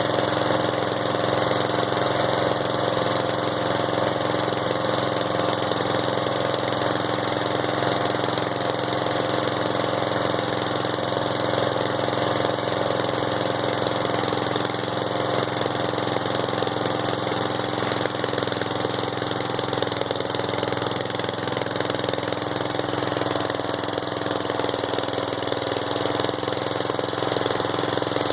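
Riding lawnmower engine running at a steady speed while the mower is driven, with no change in pitch. The tank is nearly empty and the engine is said to be running on gas vapor.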